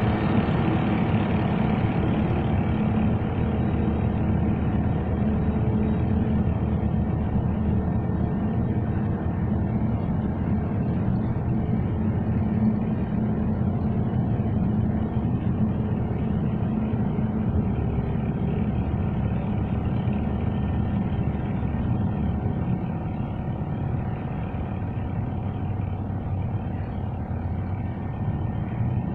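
Engine of a shipyard's remote-controlled vessel-lifting machine running steadily, a continuous low hum that eases a little near the end.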